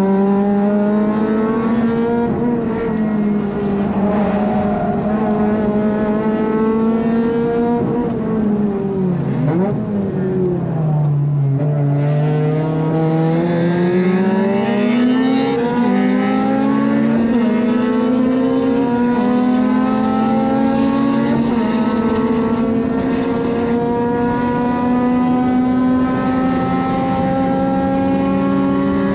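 Honda Civic FD2's four-cylinder engine at high revs under racing load, heard from inside the car. Its pitch drops sharply about nine seconds in as it comes off the throttle and down the gears, then climbs steadily under acceleration for the rest of the stretch.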